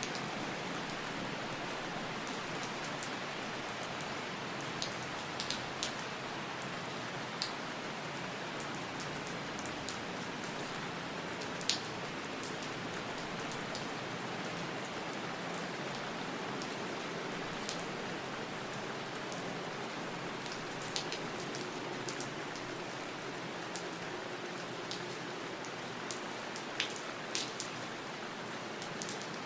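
Steady rain falling, an even hiss with scattered sharper drips ticking on a surface every second or two.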